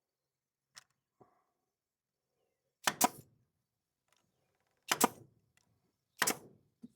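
Three sharp knocks about a second and a half to two seconds apart, each a quick double hit on wood, after two faint clicks; the knocks are typical of a board being tapped or hammered into place.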